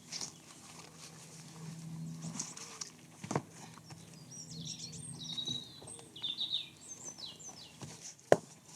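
Small birds singing and chirping in the woods, with a faint low hum in the first half and two sharp knocks, one about three seconds in and a louder one near the end.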